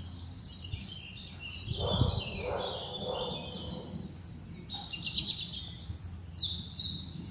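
Several songbirds singing, with many short chirps and trills overlapping, and a brief knock about two seconds in.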